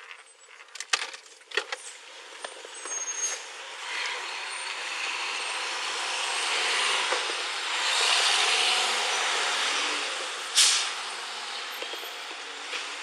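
Vehicle noise heard through a police body camera's thin-sounding microphone: a few clicks and knocks in the first two seconds, then a steady rush of traffic that swells toward the middle and eases off, with one short sharp hiss about ten and a half seconds in.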